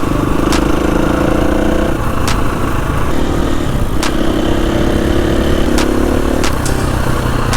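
Motorcycle engine running under way, its pitch shifting up and down a little with the throttle, with a few sharp clicks scattered through.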